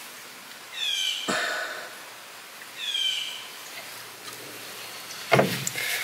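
A bird calls twice, each a short call sliding downward in pitch. A crimping tool clicks shut on a spade connector about a second in and again near the end.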